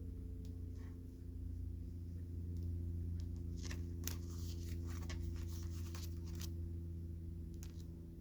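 Crisp crackles, taps and rustles of oversized Pokémon cards being handled, mostly in a cluster near the middle, over a steady low hum.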